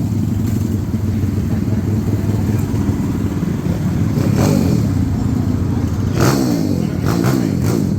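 Loud minibike engine running close by, its pitch rising and falling as the throttle is blipped.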